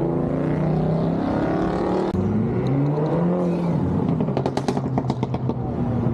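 Car engine revving with its pitch rising and falling. About halfway through this gives way to a rapid series of sharp exhaust pops and crackles.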